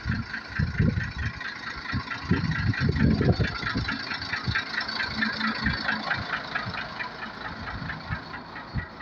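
A heavy vehicle engine running steadily, with louder low rumbling in the first few seconds.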